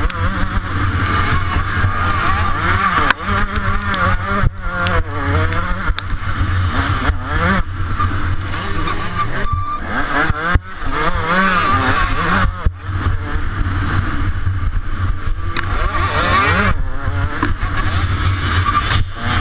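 125cc two-stroke motocross bike engine racing, its pitch repeatedly rising and falling as the rider works the throttle and gears, with many brief cuts where the throttle is chopped.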